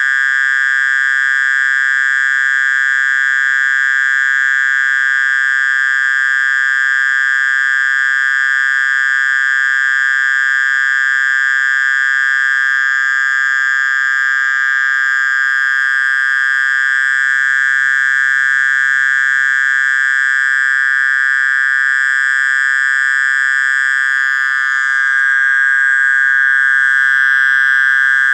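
Mole crickets (orong-orong) singing: a continuous, steady, high buzzing trill with no breaks, a little louder near the end.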